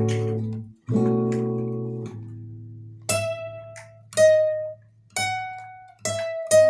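Solo guitar playing: two ringing chords over a held low bass note, then single plucked notes that ring out one at a time, about a second apart, coming quicker near the end as a melody.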